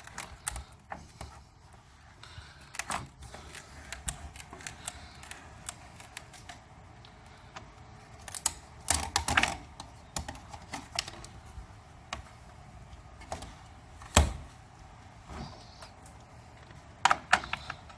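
Marvin awning window's crank operator being worked by hand, giving irregular clicks and knocks from the handle and gear as the sash opens and closes, with one sharp, louder knock late on.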